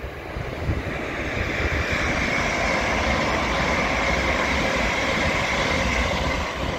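GWR passenger train passing at speed: a steady rush of wheels on the rails with a faint high hum, building over the first couple of seconds and easing off near the end.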